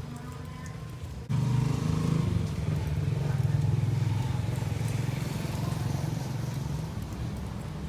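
A motor vehicle's engine, starting suddenly about a second in, running loudest for a few seconds and then slowly fading, as of a vehicle passing by.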